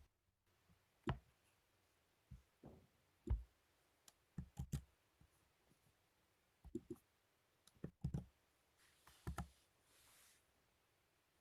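Faint, irregular clicks and soft knocks in a quiet small room, some in quick pairs, with a soft breath near the end.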